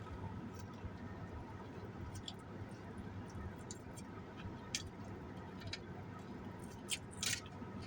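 Faint eating sounds during a pause in talk: a few soft mouth clicks and smacks, scattered and irregular, over a low steady room hum.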